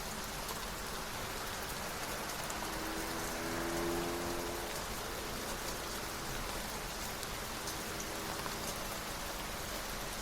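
Steady rain falling, with a faint low hum that swells and fades a few seconds in.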